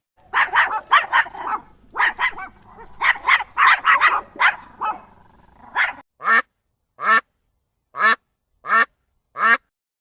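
Short animal calls in quick runs, then, after a sudden change about six seconds in, about five separate short calls at a steady pace, a little under a second apart.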